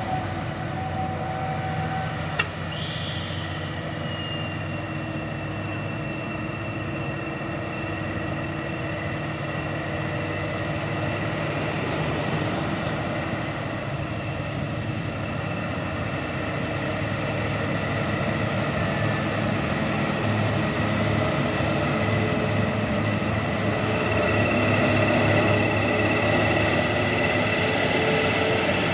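Heavy diesel truck engine running steadily under a continuous high whine, growing gradually louder over the second half. A single sharp click about two seconds in.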